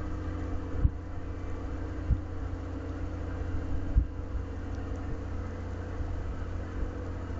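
A steady low mechanical hum, like an engine or motor running, with a few soft low thumps.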